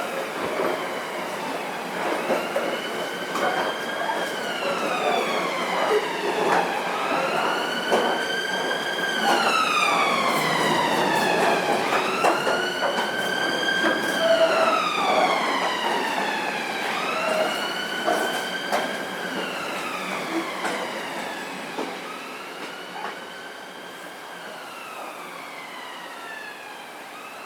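Emergency vehicle siren wailing, its pitch slowly rising and falling about every four to five seconds, growing fainter over the last several seconds as it moves away. Under it is a steady rumble with scattered clicks.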